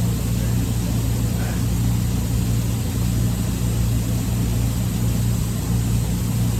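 A steady, unchanging low mechanical drone, like an engine or large machine running at idle.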